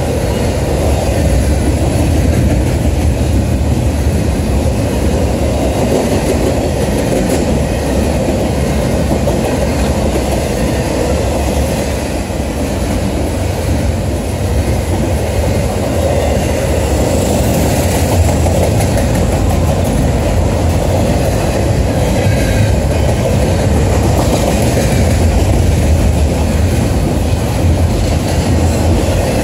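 Norfolk Southern intermodal freight train's cars rolling past, a loud, steady rumble of steel wheels on rail.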